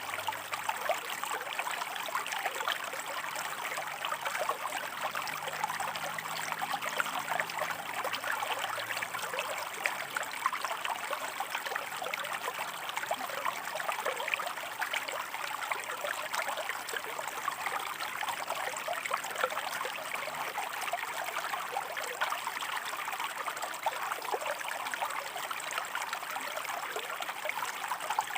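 Shallow river water flowing and splashing over rocks, a steady babble of many small splashes and trickles.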